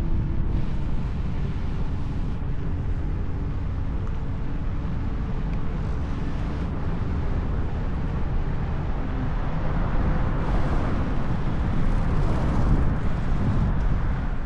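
Wind buffeting the camera microphone during an electric unicycle ride, a steady low rumble with road noise underneath. A brighter hiss swells from about ten seconds in.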